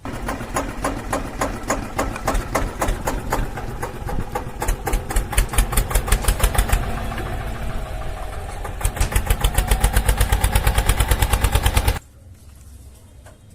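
Engine running with an even chugging beat, about six beats a second, that quickens slightly about nine seconds in, then cuts off abruptly near the end.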